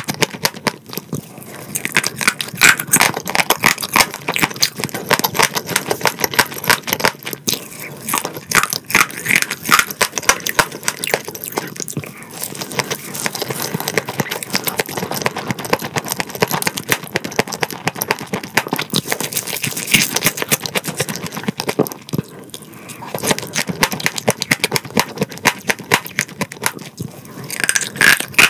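Close-miked crunching and chewing of crispy fried food, a dense run of crackly bites with brief lulls between mouthfuls.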